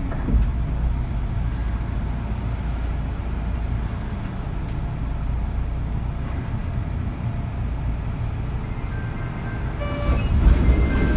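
Inside a Kintetsu 3200 series motor car: a steady low rumble, then about ten seconds in the Mitsubishi early GTO VVVF inverter starts up with a set of stepped, pitched whining tones as the car begins to accelerate.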